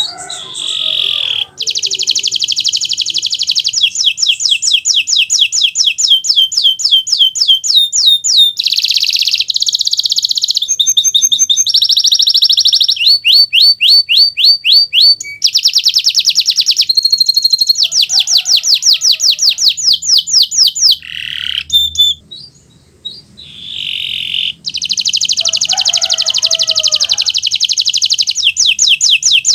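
Kenari Nusantara canary in full song: long, loud runs of fast trills and rolls, one phrase after another, with a short break about two-thirds of the way through.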